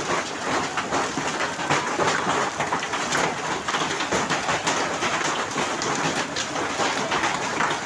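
Hailstorm: a dense, steady clatter of hailstones and rain striking hard surfaces, many separate sharp impacts within the rush of the downpour.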